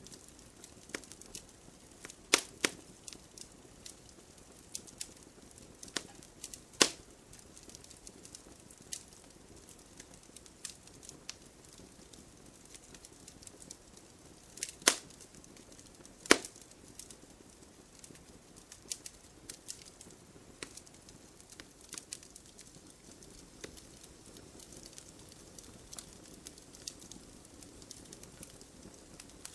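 Wood campfire burning and crackling: irregular sharp pops and snaps over a faint low hiss, with a few louder pops scattered through.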